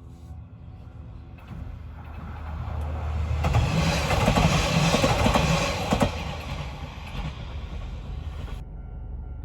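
A train passing close by a level crossing: the sound builds over about two seconds, is loudest for a couple of seconds with a sharp knock near the end of that, then fades away.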